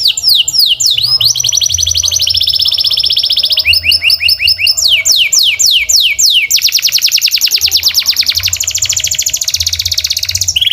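Domestic canary singing loudly in its typical rolling phrases. It runs fast series of repeated descending notes, several a second, and switches between phrases into a faster, even trill in the second half. The song cuts off abruptly at the very end.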